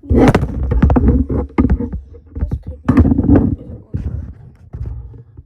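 Fidget toys and a box knocking and rattling as they are handled and moved around in a drawer, in quick clusters of clicks with two louder bursts of clatter, one at the start and one about three seconds in.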